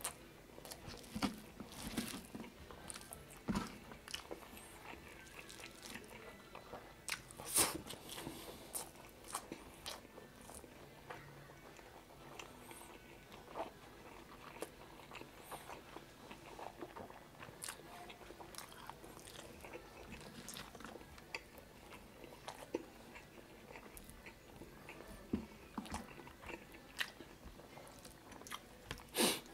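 Close-miked chewing of chicken adobo and rice eaten by hand, with irregular short clicks and snaps from the mouth and fingers.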